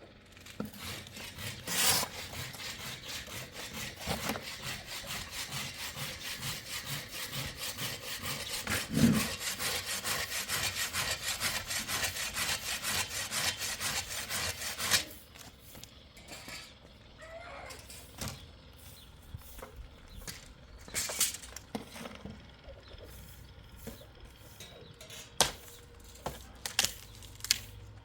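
Hand saw cutting wood in quick, even back-and-forth strokes for about fifteen seconds, then stopping. A few scattered knocks and taps follow.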